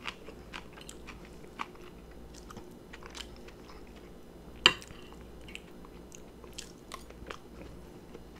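Close-miked chewing of a lollipop chicken drumstick: soft, wet mouth clicks scattered throughout, with one sharp, loud crunch a little past halfway.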